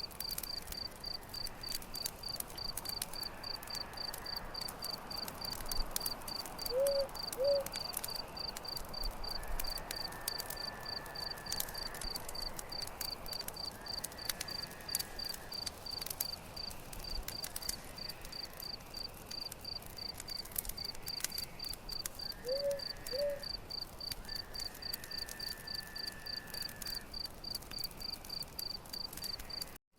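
Campfire crackling in irregular small pops, over a cricket chirping steadily at an even pace. Twice a pair of short, low calls sounds, and the sound drops out for an instant just before the end.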